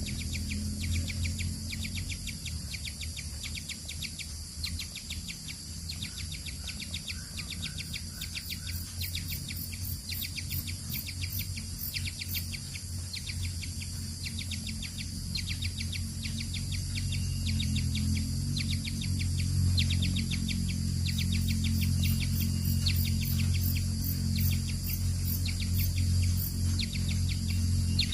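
Small birds chirping in rapid, closely repeated short calls, over a steady low hum that grows louder in the second half.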